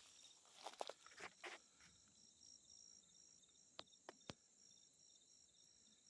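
Faint footsteps crunching through dry brush and leaf litter in the first second and a half, then three sharp clicks about four seconds in. Under them, faint high insect chirping pulses steadily and evenly.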